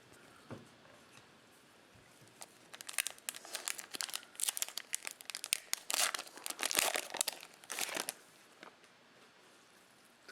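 Foil trading card pack wrapper being torn open and crinkled by hand, a run of crackling from a few seconds in until near the end.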